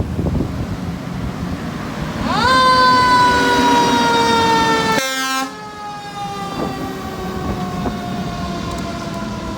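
Fire truck siren sweeping sharply up in pitch about two seconds in, then sliding slowly down, over the low rumble of the passing truck.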